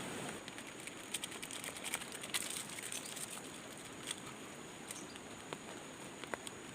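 Irregular light ticks and patter, thickest about one to three seconds in, over a steady high hiss.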